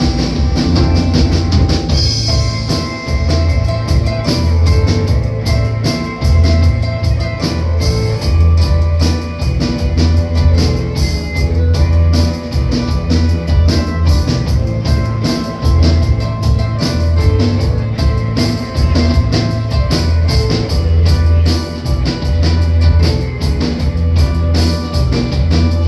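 Rock band playing an instrumental break live: drum kit, bass and guitar, with the bass notes and drum beat loudest and the singing stopped.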